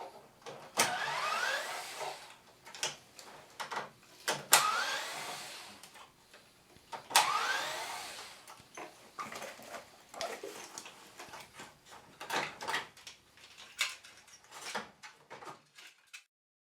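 Short runs of a cordless electric screwdriver whirring up in pitch, three times a few seconds apart, among clicks and knocks of plastic air-conditioner parts being handled. The sound cuts off suddenly shortly before the end.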